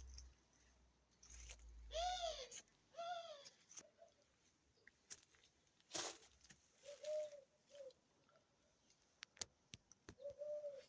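Birds calling: two clear rising-and-falling calls about two and three seconds in, then shorter, lower cooing notes later on, with scattered light clicks and rustles between them.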